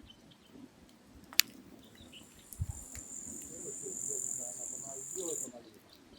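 An insect buzzing high and steady for about three and a half seconds, then stopping abruptly. Just before it, a single sharp crack from the burning firewood.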